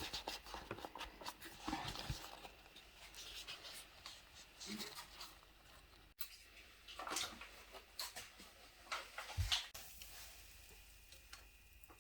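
Quiet food-preparation handling noises: scattered soft rustles and light knocks as the lavash wraps are filled with ingredients.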